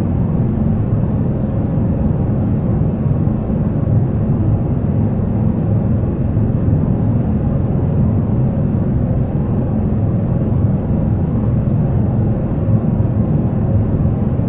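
Jet airliner noise: a steady, even low rumble that does not rise or fall.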